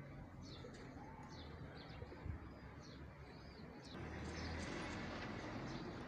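Small birds chirping, many short quick chirps over a faint steady background hum. The background noise grows louder about four seconds in.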